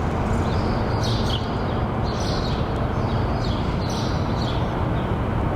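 Birds chirping in short repeated calls about once a second, over a loud, steady low background noise.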